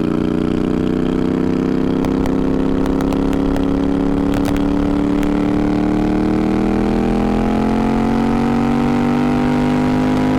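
Twin-turbocharged Moto Guzzi V50 III's V-twin engine running under way, its pitch climbing slowly and steadily as the motorcycle gathers speed.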